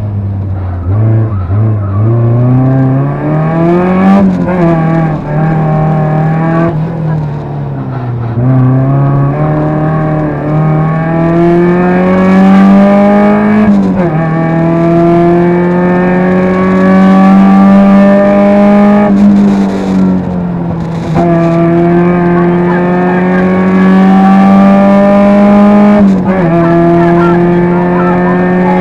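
Rally car engine heard from inside the cabin under hard acceleration. Its pitch climbs through each gear and drops sharply at each upshift, about five times.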